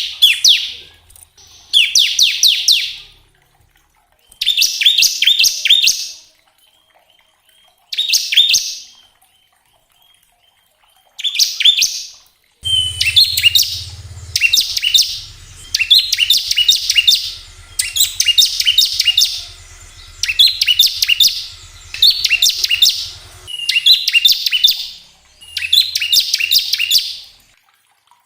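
Bar-winged prinia (ciblek) singing its rapid buzzing 'ngebren' trill in bouts of about a second, repeated with short gaps; from about halfway the bouts come back to back over a faint low hum.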